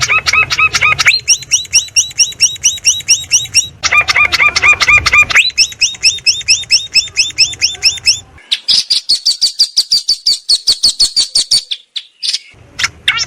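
Songbird chirps from a birdsong track for training long-tailed shrikes. Fast runs of identical chirps, about ten a second, switch abruptly to a different chirp type every second or two. A higher, thinner series runs through the second half, then the chirps break off briefly near the end.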